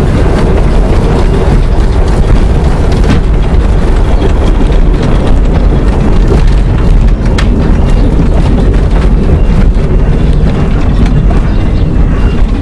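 Miniature railway train running, a steady loud rumble with heavy wind noise on the microphone.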